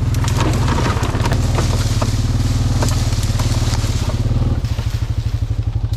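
Honda Rancher ATV engine running steadily, then slowing to a lower, more distinctly pulsing idle about two-thirds of the way through. Scattered sharp cracks and clicks sound over it.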